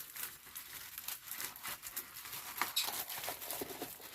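Plastic packaging and a diamond painting canvas being handled, with irregular crinkling and rustling and small ticks.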